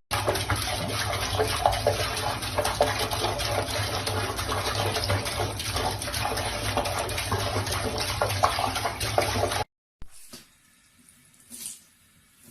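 A steady rushing noise, like running water, that cuts off abruptly near the end, followed by a few faint small clicks.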